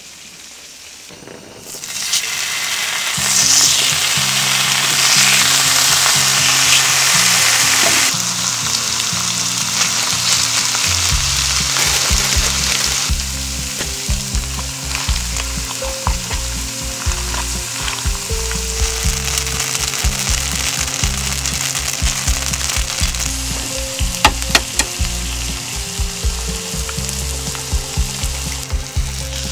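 Food frying on a hot black iron griddle plate, a loud sizzle that starts about two seconds in, is loudest for the next several seconds, then carries on a little lower. Background music with a bass line plays under it from about three seconds in.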